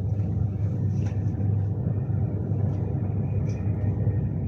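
Steady low rumble of a Class 390 Pendolino running at speed, heard from inside the passenger saloon, with a few faint light ticks and rattles.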